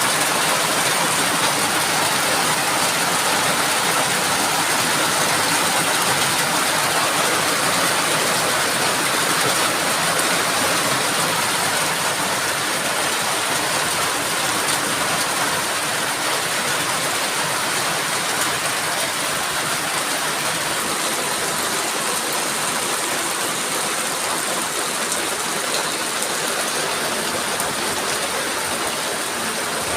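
Heavy rain pouring in strong wind: a steady, dense rushing hiss that eases slightly in the second half.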